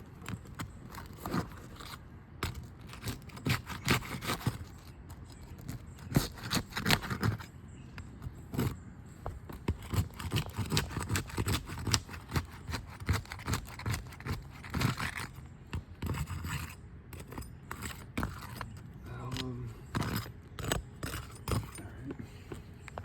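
Metal roofing tools scraping and clicking against asphalt shingles in irregular short strokes as the shingle seals are broken loose to reach the nails.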